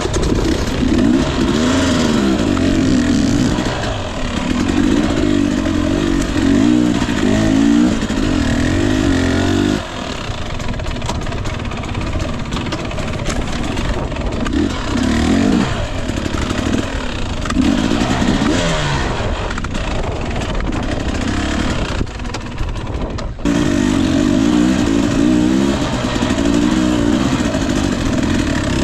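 Two-stroke engine of a Husqvarna TE 250i enduro dirt bike revving up and down as it is ridden, the pitch rising and falling with the throttle. It eases off about a third of the way in and runs lower for a few seconds past the middle, then comes back on sharply near the end.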